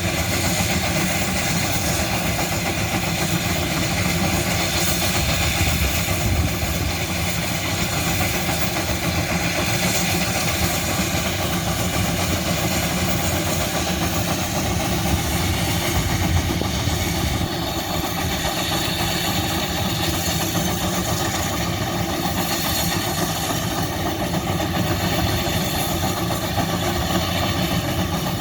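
Old gas engines running steadily with a rapid, even chuffing.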